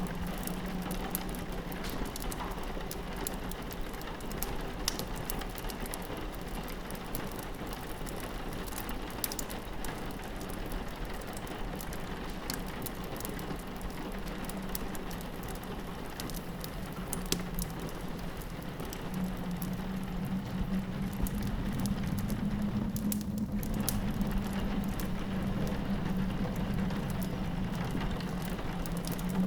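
Rain pattering against a window with a wood fire crackling, its sharp pops scattered throughout, over a low steady wind drone that grows louder about two-thirds of the way through.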